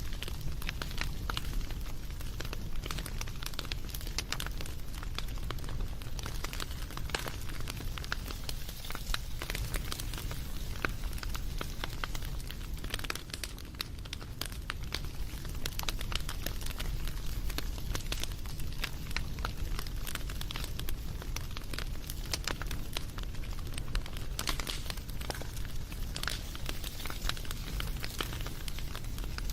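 Wood fire crackling, with many small sharp pops and snaps over a low steady rumble of the flames.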